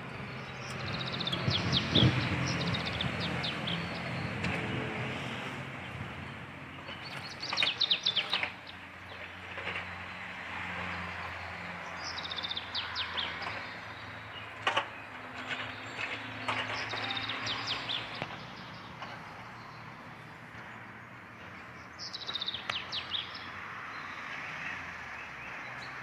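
A small bird singing a quick trilled phrase of rapid high notes five times, a few seconds apart, over steady background noise with a low hum.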